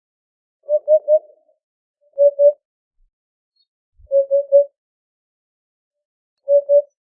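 Eurasian hoopoe singing its low, soft hooting song, 'oop-oop-oop'. There are four short phrases of two or three hoots each, roughly two seconds apart.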